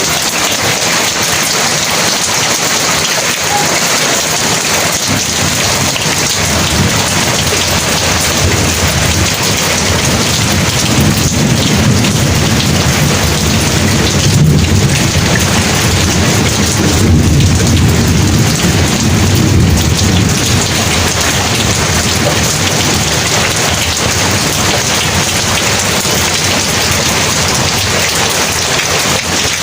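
Heavy rain falling steadily, with a long low rumble of thunder that builds a few seconds in, swells in the middle and fades away about two-thirds of the way through.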